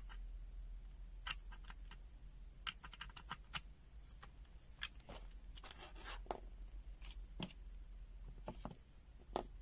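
Light plastic clicks and taps from a handheld multimeter's case and parts being handled, coming irregularly and sometimes in quick clusters, with a brief scrape about six seconds in.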